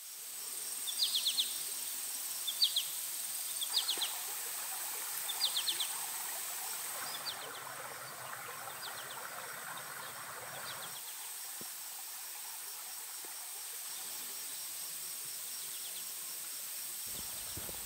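Countryside ambience: a bird singing short, quick trills every second or two for the first several seconds, over a steady high-pitched buzz. A low rumble starts near the end.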